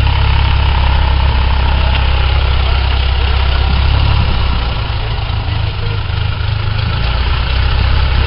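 Cessna 172SP's four-cylinder Lycoming engine running at low power, a steady low drone that eases off about four and a half seconds in and picks back up about seven seconds in.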